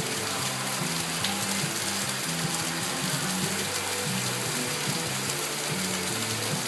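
Steady rain falling, a dense even hiss. A low, stepping bass line of music plays underneath.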